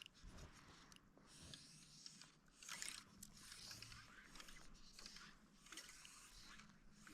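Near silence: faint scraping and small clicks over a low hiss, with a slightly louder scratchy patch about three seconds in.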